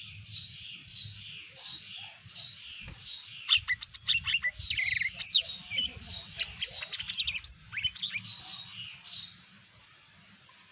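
Green leafbird (cucak ijo) singing: a steady series of short high notes about two a second, then from about three and a half seconds in a louder burst of rapid, varied, sharp chattering song that stops about nine seconds in.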